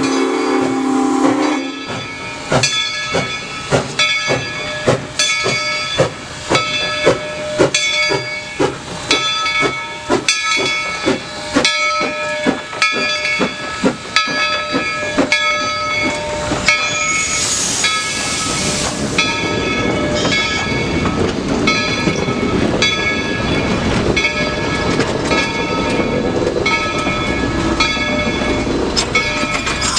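Steam locomotive at work: its whistle sounds briefly at the start, then its bell rings steadily at about one and a half strikes a second. A burst of steam hiss comes about two-thirds of the way in, and the rumble of the moving train builds toward the end.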